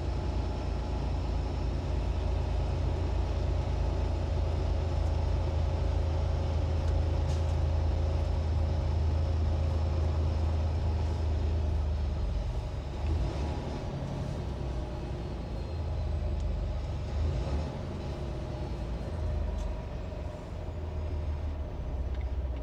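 Semi-truck's diesel engine running with a steady low drone, a little quieter and more uneven in the second half.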